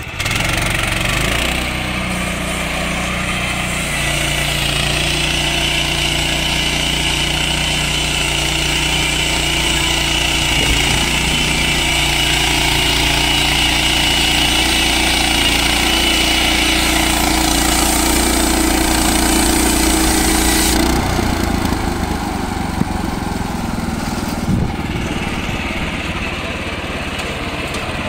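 Frontier OS31 portable band sawmill's small petrol engine running at high throttle while the band blade saws through a fir log. About 21 seconds in, the engine drops back to a lower, lighter running speed.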